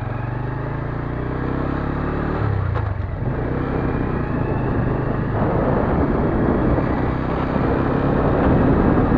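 Motorcycle engine running as the bike rides on, its pitch climbing for the first couple of seconds and changing about three seconds in, like a gear change. A rushing wind noise on the microphone builds from about five seconds in as the bike gains speed, and the whole sound grows louder.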